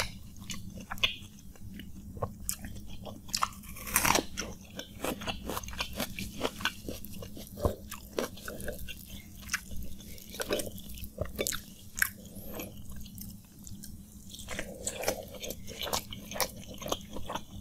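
Close-miked chewing of a mouthful of panta bhat (water-soaked rice) with its side dishes: wet mouth smacks with many small crisp clicks and crunches, and one louder crunch about four seconds in. A steady low hum runs underneath.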